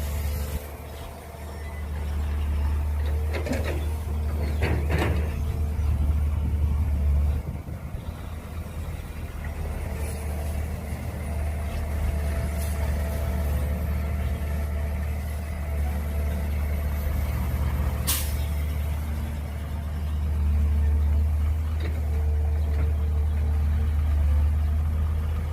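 Mini excavator's diesel engine running under working load, its level rising and falling as the hydraulics work. A brief squeal comes about four seconds in and a sharp knock about two-thirds of the way through.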